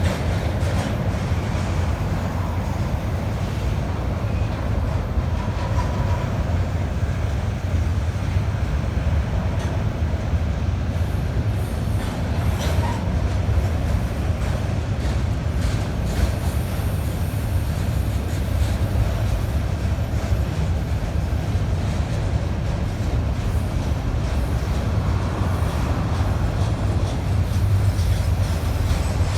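Freight train rolling past, a steady low rumble of cars on the rails with scattered wheel clicks.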